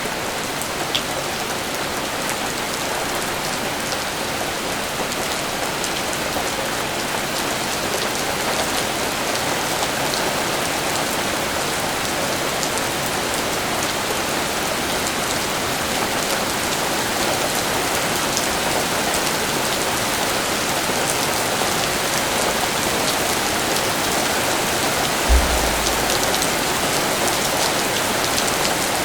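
Steady rain falling, an even hiss with scattered drop ticks. One brief dull thump comes near the end.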